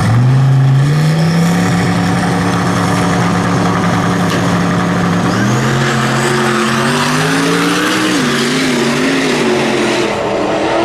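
Jeep Cherokee XJ engines held at raised revs on the drag-strip start line, then launching about halfway through, the engine note climbing as they accelerate with a gear change near the end. A thin high whine rises with them.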